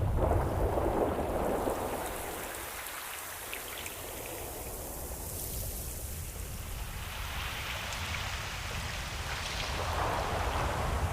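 Ocean waves washing onto a shore: a rush of surf at the start that eases off, then builds into another wash near the end.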